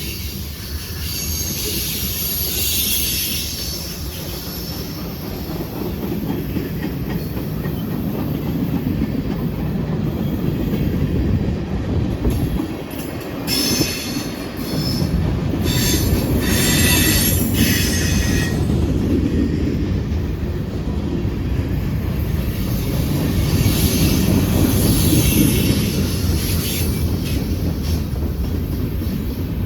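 Freight train rolling past on a curve, a steady rumble and clatter of wheels on rail, with spells of high-pitched wheel squeal from the flanges grinding through the curve, strongest about halfway through and again near the end.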